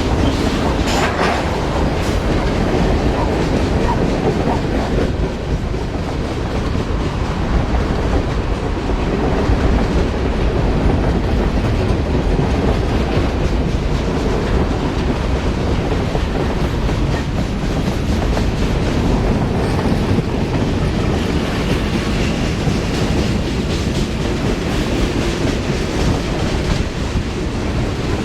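Railroad cars rolling past close by, with a steady heavy rumble and the clickety-clack of wheels over the rail joints.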